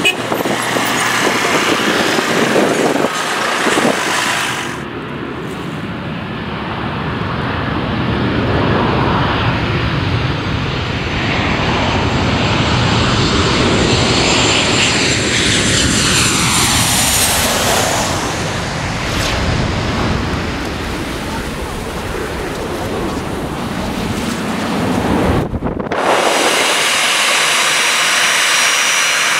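Jet airliner's engines, loud, as the aircraft passes close by; their whine falls steeply in pitch about halfway through. The sound breaks off abruptly twice.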